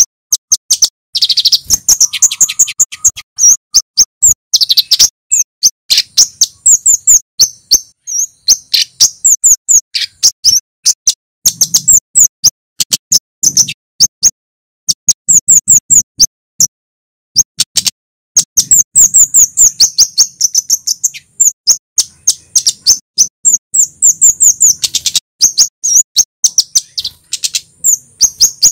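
Male kemade flowerpecker singing loud, rapid runs of sharp, high 'cit' chips, burst after burst with short pauses between.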